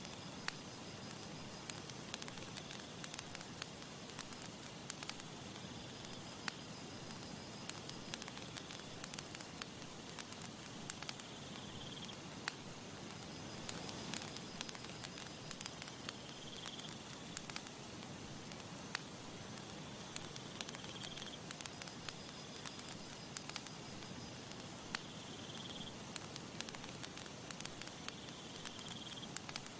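Campfire burning with frequent sharp crackles and pops over a steady soft hiss. A faint high-pitched tone sounds briefly every four to five seconds.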